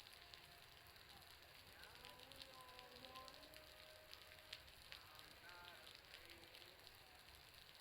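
Faint crackling of an outdoor bonfire, mixed with the pattering of water dripping from a roof, which sounds much like fire crackle. Distant voices are faintly heard.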